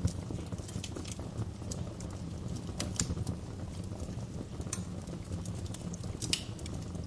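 Wood fire in a fireplace crackling: irregular snaps and pops over a steady low rumble, with sharper pops about three seconds in and again just past six seconds.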